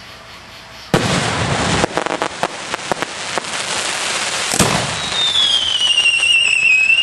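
Fireworks going off: a sharp bang about a second in, then dense crackling, another bang about halfway through, and a whistle falling in pitch near the end.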